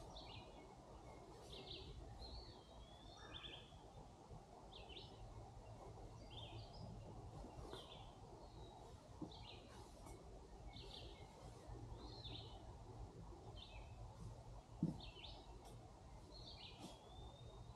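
Faint songbird calls: short chirps repeated about once a second, with a couple of longer wavering whistles, over a low steady rumble. A single sharp click about fifteen seconds in.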